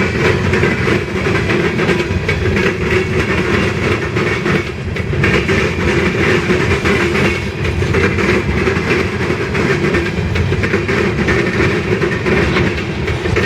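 Freight train cars rolling past at speed: a steady, loud rumble of steel wheels on the rails with continuous clicking over the rail joints.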